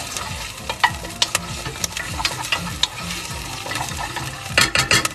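Onions and potatoes sizzling in oil in a pot while a wooden spoon stirs them, with scattered knocks against the pot and a quick run of knocks near the end.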